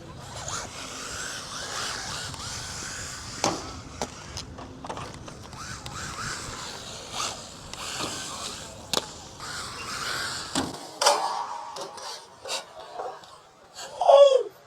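MJX Hyper Go 1:14 Citroen C3 RC rally car driving and drifting on concrete: its brushless motor whines up and down with the throttle over a hiss of tyres and wheels on the ground, with scattered knocks. Near the end there is a short, loud falling squeal.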